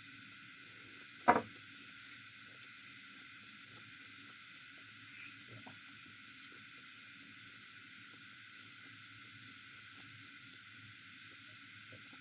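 Faint eating sounds of small clicks and chewing, with one sharp loud click about a second in. Underneath runs a steady hiss and a faint high chirping of about four pulses a second.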